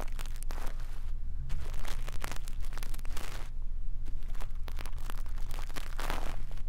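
Brush bristles sweeping and scratching over a microphone for ASMR ear cleaning: crackly brushing strokes full of small clicks, with a low steady hum underneath.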